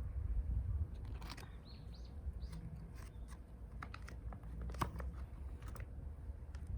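Scattered snaps and crackles of twigs at a small wood gas stove fire, with a few short high bird chirps a second and a half to two and a half seconds in, over a low steady rumble.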